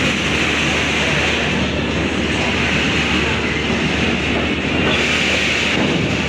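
Passenger train running on the rails as it pulls out of a station: a steady, dense rumble and rattle of wheels and coaches.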